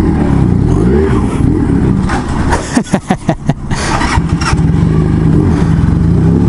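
Motorcycle engine being ridden, its pitch rising and falling with the throttle, with a quick run of sharp knocks about three seconds in, then settling to a steady running note.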